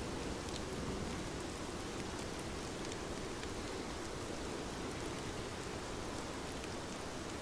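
Steady rain falling, a dense even hiss with a low rumble and faint scattered drop ticks.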